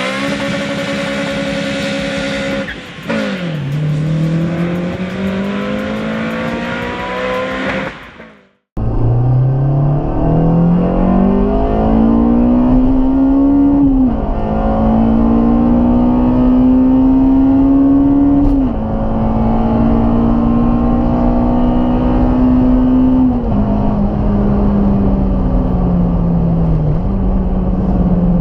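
Tuned EP3 Honda Civic Type R's four-cylinder engine and exhaust pulling through the gears. The note rises, drops sharply at each upshift and then holds. The sound cuts out briefly about eight seconds in, then picks up again.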